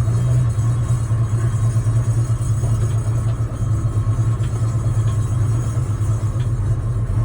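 Sailboat's inboard diesel engine running steadily at idle with a low rumble. It is running a bit crazy because the electric fuel pump below decks is switched off.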